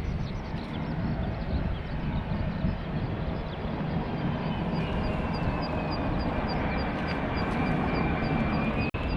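Aircraft engine running with a steady low rumble and a high turbine whine that slides slowly down, then rises again just before the end. The sound drops out for an instant near the end.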